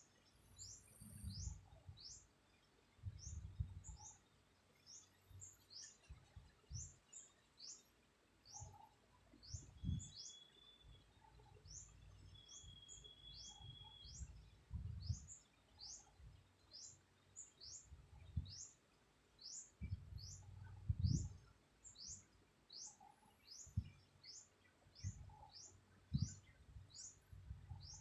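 A bird's short, high, downward-sliding chirp repeated steadily about once a second, over faint, irregular low rumbles.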